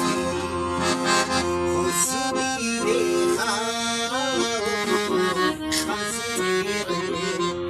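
Accordion playing a traditional folk tune: sustained chords and a moving melody over a pulsing bass.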